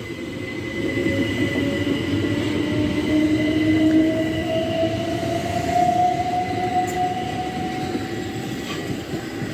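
Class 375 Electrostar electric multiple unit pulling away, its traction motors giving a slow rising whine over the rumble of the train on the track.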